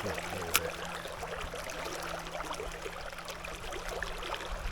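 River water running and trickling, with one sharp click about half a second in.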